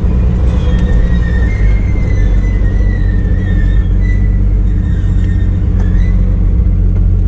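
Turbocharged Chevrolet Opala inline-six engine running steadily as the car drives: an even low drone, with a faint thin whine above it.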